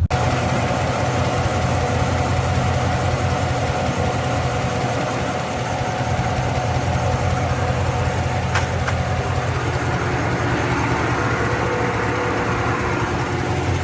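Car engine idling on its first start-up, running rough enough to shake and throw a flashing check-engine light, typical of a misfire. A single sharp tick comes about eight and a half seconds in.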